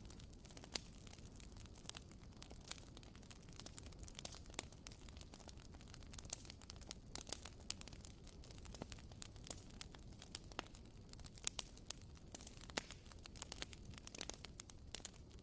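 A WoodWick candle's wooden wick crackling like a tiny campfire: a quiet, irregular run of small pops and clicks, several a second.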